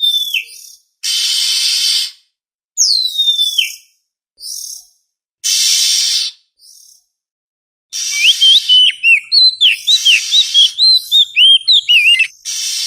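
Oriental magpie-robin (kacer) song: two falling whistles alternating with harsh rasping bursts about a second long, then from about eight seconds in a rapid run of short whistled notes mixed with rasps.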